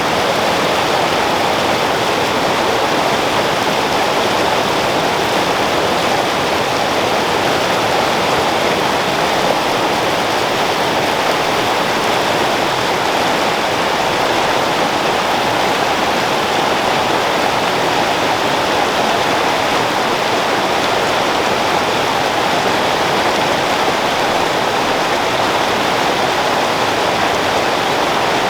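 Creek water flowing over rocks, a steady rushing babble.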